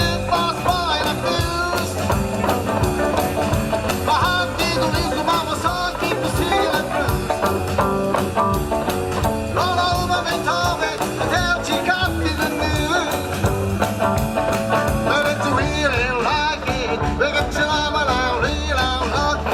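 A live rock band playing a song, with a steady beat and a melodic lead line.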